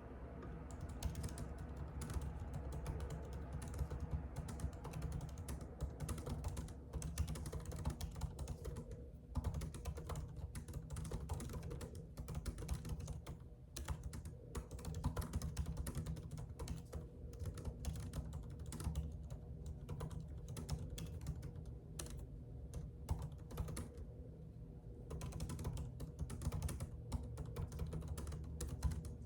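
Typing on a computer keyboard: quick, irregular keystrokes in runs broken by brief pauses, over a steady low hum.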